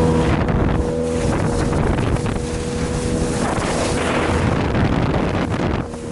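Boat engine running steadily, with wind buffeting the microphone and the rush of water.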